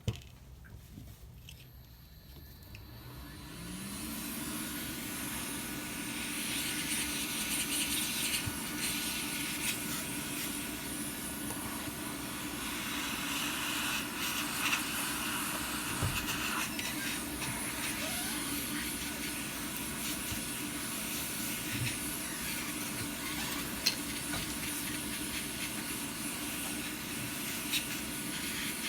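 A hot-air blower spinning up with a rising whine over the first few seconds, then blowing steadily with a hiss over a steady hum, with a few light clicks.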